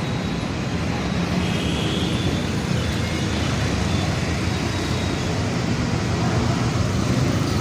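A machine running steadily: a low hum under an even hiss.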